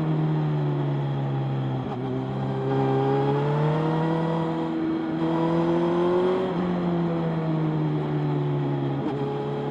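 Motorcycle engine running steadily under way. Its pitch rises gradually for a few seconds, then drops suddenly about two-thirds of the way through and levels off.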